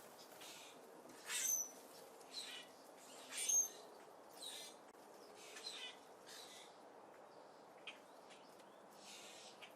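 Small birds chirping at a seed feeder: a scatter of short, high chirps and calls, the two loudest about one and a half and three and a half seconds in, over a faint steady hiss.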